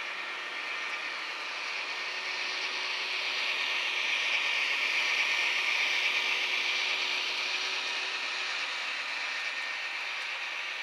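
An HO scale model train rolling along the track, its wheels and drive gears making a steady whirring, clicking noise that grows louder towards the middle and then eases off as it passes.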